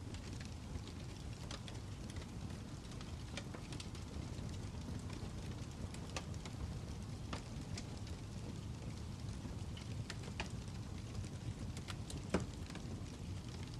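Wood fire crackling: a steady low rumble with scattered pops and snaps, the loudest pop about twelve seconds in.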